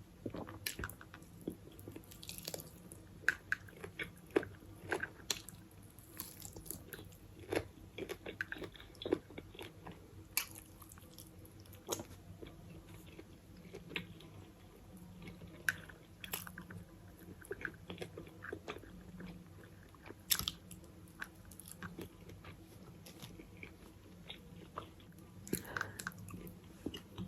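A person biting and chewing crunchy food close to the microphone, in irregular sharp crunches and wet chewing clicks, over a faint steady low hum.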